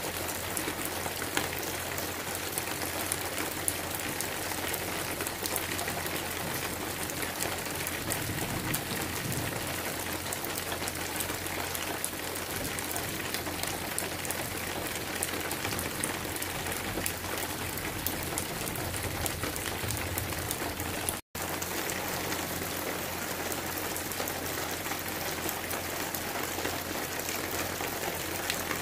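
Steady rain falling on trees and pasture: a dense, even hiss with fine patter of drops. The sound cuts out for an instant about two-thirds of the way through.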